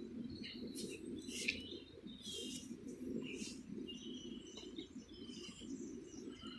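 Small birds chirping and tweeting in short, irregular calls over a steady low background rumble.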